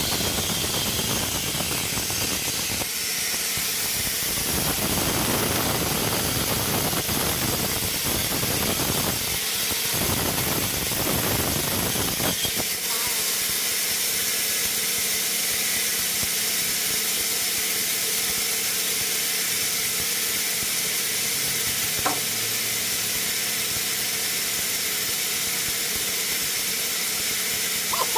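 Sawmill machinery running steadily with a loud hiss. A deeper rumble drops away about twelve seconds in, leaving the hiss and a faint steady hum, with a sharp click about 22 seconds in and another near the end.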